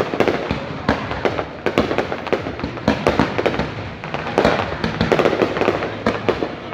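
Fireworks display going off: a continuous run of loud bangs and crackling from bursting shells, many a second.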